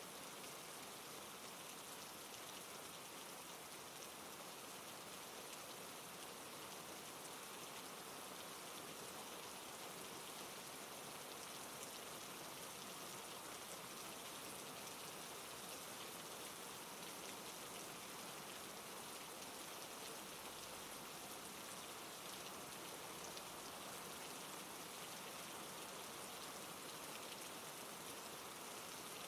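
Steady rain: an even hiss with many fine drop ticks, unchanging throughout.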